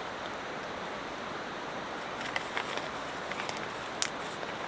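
Steady outdoor background hiss with a few faint scattered clicks and rustles, and one sharper click about four seconds in.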